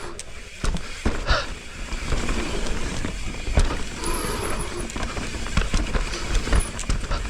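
Mountain bike descending a rough dirt trail: tyres on dirt and rocks, with frequent sharp knocks and rattles from the bike over a steady low rumble.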